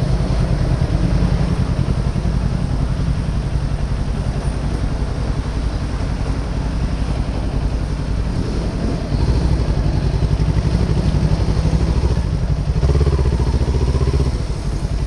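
Kawasaki Ninja 400's parallel-twin engine running at low speed, getting louder a little past halfway and again near the end.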